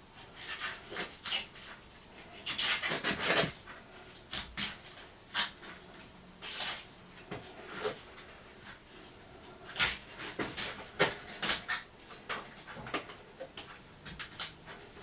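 Tools and metal parts being picked up and set down on a workbench: irregular clunks, clinks and scrapes, some in quick clusters.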